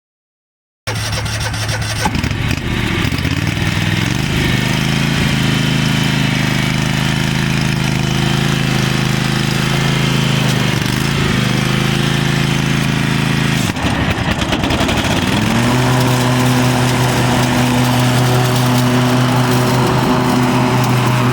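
Cub Cadet XT2 lawn tractor engine running steadily. Its speed wavers a few times, dips about 14 seconds in, then rises and holds at a higher, steady speed.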